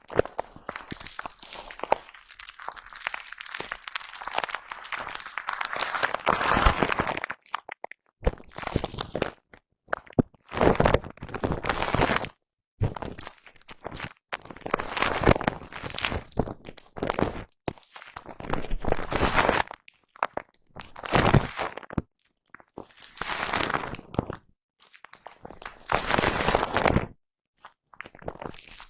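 A foam brush rubbed against a microphone: brushing runs on for the first seven seconds or so, then breaks into a series of separate strokes, each about a second long, with short pauses between.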